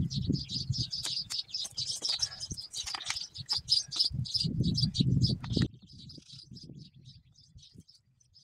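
Small birds chirping rapidly and continuously. Under them, a low rumbling noise runs until it cuts off suddenly a little past halfway, leaving only the chirps.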